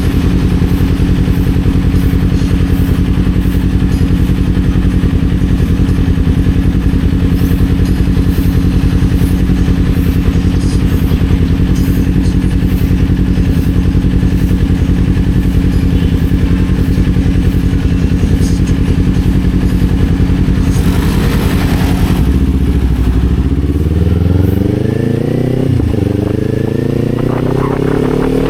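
Kawasaki Z400's parallel-twin engine pulling at steady revs for most of the time, then the revs drop about three-quarters of the way through and climb again as the bike accelerates, with a brief dip partway up as it shifts gear.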